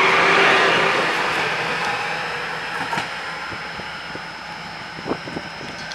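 A train passing through the station, its running noise fading steadily as it moves away, with a few faint clicks near the end.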